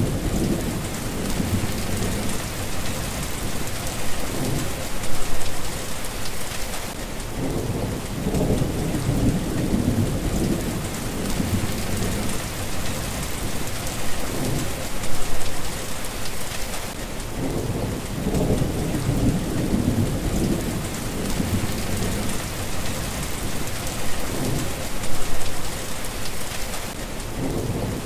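Steady rain hissing, with low rolling thunder that swells and fades several times.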